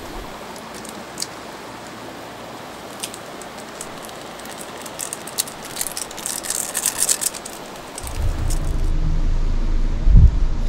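Steady rushing creek-side noise with scattered small clicks and a stretch of crackling rustle midway. About eight seconds in, a low rumble of wind buffeting the microphone takes over, with a loud thump a couple of seconds later.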